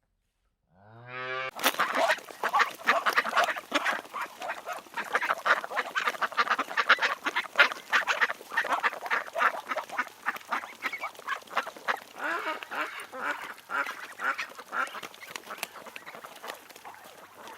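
A flock of domestic ducks quacking without pause, many short calls overlapping. It starts about a second in with one longer drawn-out call.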